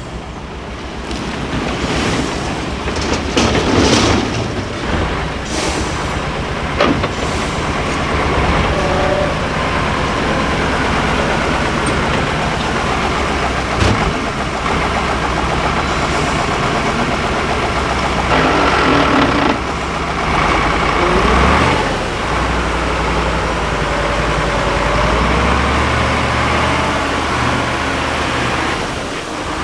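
Diesel engine of a 6x6 Ural prototype trial truck running under load, changing pitch as it works, with a few sharp knocks and short bursts of hiss.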